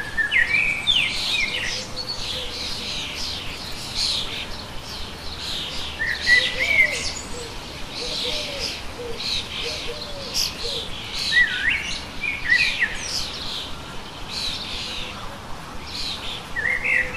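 Birds chirping and singing, many short quick chirps and whistles overlapping throughout, with a few lower calls about halfway through.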